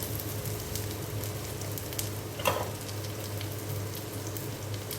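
Chopped garlic and green chillies with turmeric sizzling and crackling in hot oil in a pan. There is one brief louder sound about halfway through.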